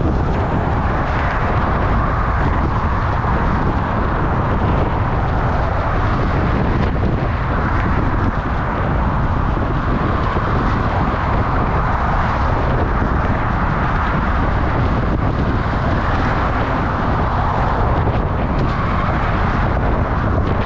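Steady loud roar of wind on the microphone mixed with road traffic noise, as heard while riding a bicycle.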